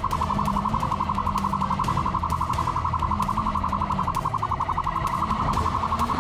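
Police siren sounding a steady, very rapid pulsing tone, with a motorcycle engine note wavering up and down underneath.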